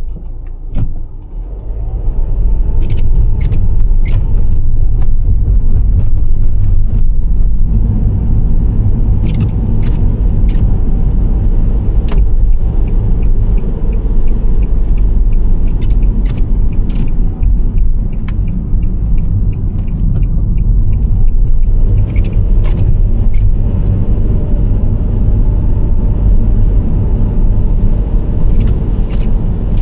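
Nissan Serena C25 minivan on the move: a steady low road and engine rumble that dips briefly about a second in, then builds back up, with short sharp ticks every few seconds, often two or three close together.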